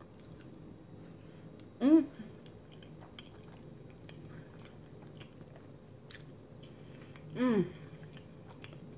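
A woman chewing a big mouthful of soft lasagna with closed lips, making faint wet mouth clicks. Twice, about two seconds in and again near the end, she makes a short hum whose pitch glides, louder than the chewing.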